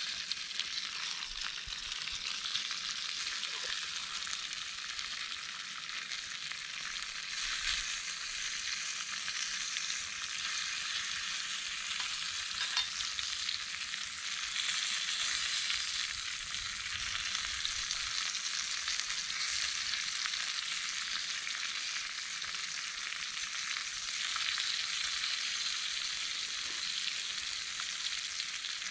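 Food frying in a pan, a steady sizzling hiss with a few faint ticks.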